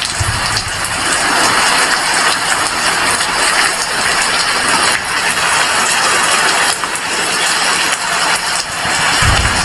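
Heavy rain falling steadily, a dense even hiss. A brief low rumble comes right at the start and again near the end.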